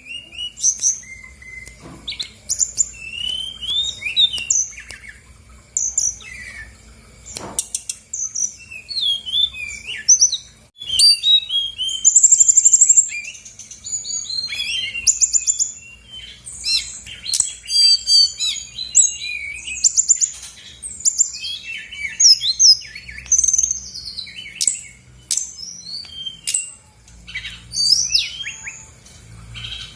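Brown-chested jungle flycatcher singing a fast, varied song of short whistled notes, trills and chatters that rise and fall in pitch, phrase after phrase with only brief pauses.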